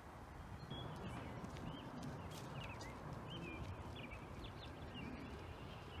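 Small birds chirping in short, quick calls over a steady outdoor background hiss.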